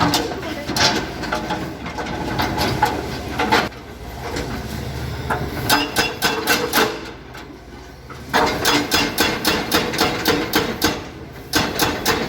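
Hammer blows in quick runs of about four strikes a second, with short pauses between the runs.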